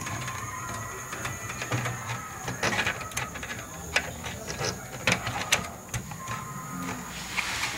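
Irregular clicks, taps and knocks of desktop computer parts and cables being handled inside the case, with several sharper clicks from about two and a half to five and a half seconds in.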